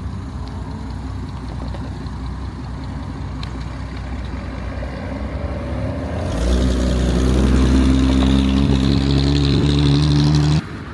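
A car's engine and exhaust as it drives out close by: a low rumble grows over the first few seconds, then from about six seconds in it turns into a loud, deep, steady drone that cuts off abruptly near the end.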